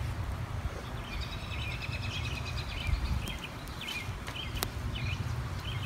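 Birds chirping in a run of short repeated high calls over a steady low rumble, with one sharp click a little past the middle.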